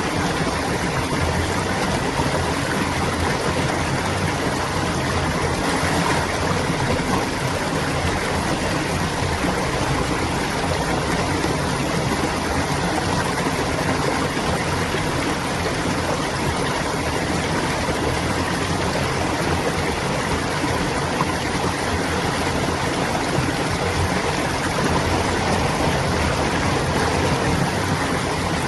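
Stream water flowing and gurgling steadily over rocks, an even rushing sound.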